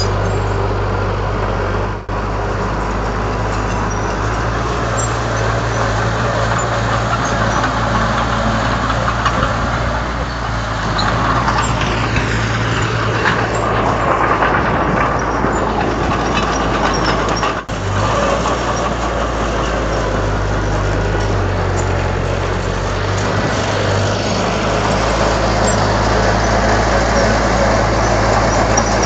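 Komatsu D31 bulldozer's diesel engine running steadily at work, with two very brief breaks in the sound.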